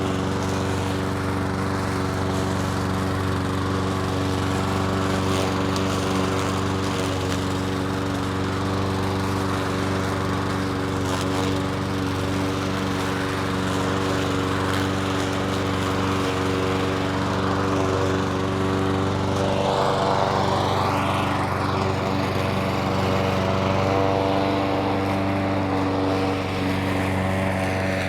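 Petrol lawn mower engine running steadily at a constant speed, its note shifting slightly with a short burst of extra noise about twenty seconds in.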